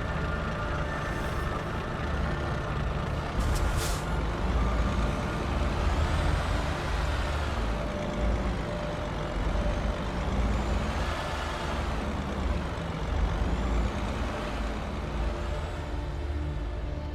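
Heavy diesel bus engine running, its pitch rising and falling in slow swells several times, with a short air-brake hiss about three and a half seconds in.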